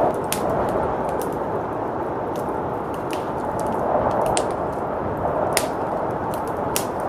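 Wood fire crackling with sharp, irregular pops over a steady blizzard wind that swells and eases.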